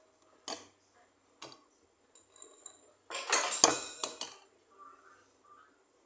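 Cutlery and dishes clinking in a kitchen: two separate clinks, then a longer clatter of several quick knocks a little past halfway.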